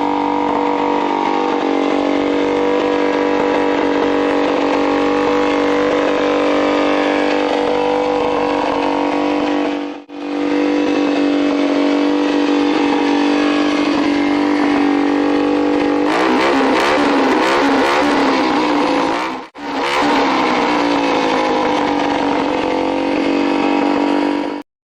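Yamaha TT-R125 single-cylinder four-stroke dirt-bike engine in a racing lawn mower, running hard at a steady pitch. About two-thirds of the way through the pitch wavers up and down. The sound drops out briefly twice and cuts off suddenly near the end.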